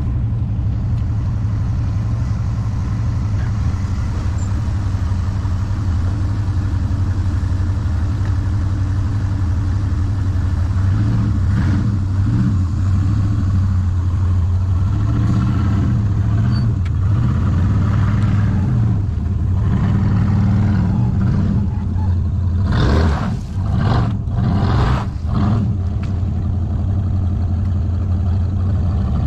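Pickup truck engine running steadily, with a few clattering knocks near the end.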